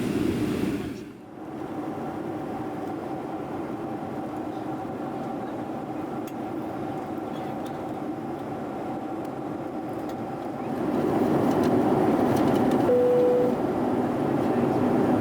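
Steady airliner cabin noise on descent: an even low rush of engines and airflow, dipping briefly about a second in and growing louder about eleven seconds in. A short single chime tone sounds near the end.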